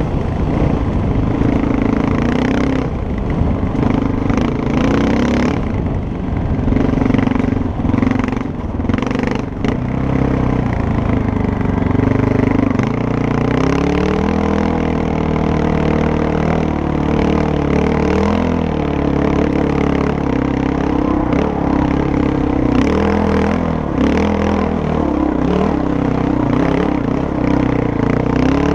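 Motorcycle engine running steadily under load off-road. Its pitch shifts down and settles about halfway through. Rattles and knocks from the bike over rough ground come in the first half.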